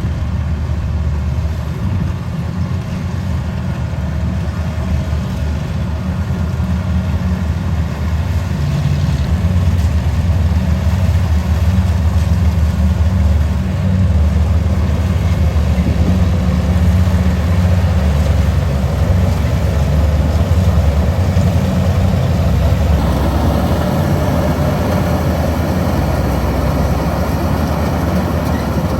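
Kubota combine harvester's diesel engine running steadily with a deep rumble. About three-quarters of the way through the sound grows busier in the middle range.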